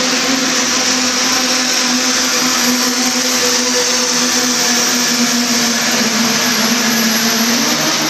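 Pulling vehicle's engine held wide open under load: a steady, loud drone with a thin high whine over it.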